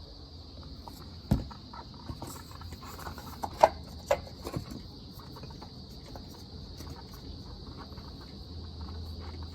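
A few scattered knocks and clicks as the oil filter and its housing cap are fitted back into place, the loudest about three and a half seconds in. Crickets chirp steadily underneath.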